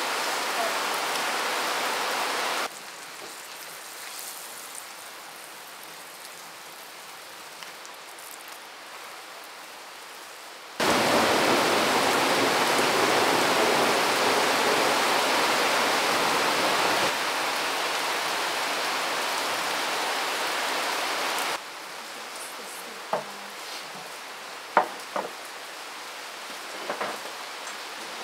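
Steady rushing noise, heard in segments that start and stop abruptly, the loudest in the middle, with a few short clicks near the end.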